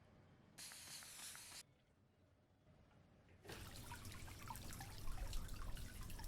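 Small paludarium waterfall: water trickling and splashing over rock, with many small drips, starting about three and a half seconds in. A brief hiss about half a second in, lasting about a second.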